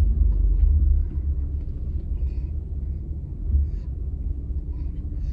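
Low, steady rumble inside a car's cabin while the car is driven slowly: engine and road noise.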